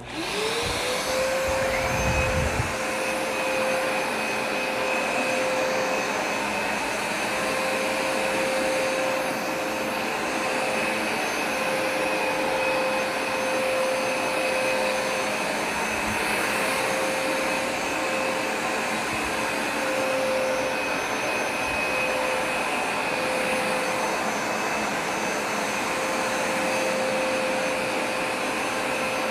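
Hoover Smartwash Pet carpet cleaner switching on, its motor whine rising over about a second, then running steadily while cleaning carpet. There are a few low thumps in the first couple of seconds.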